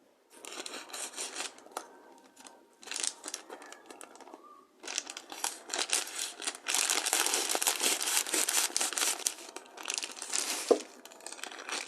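A bag of wheat flour being cut and torn open with a knife: irregular crinkling and tearing of the packaging in bursts, most sustained and loudest in the second half.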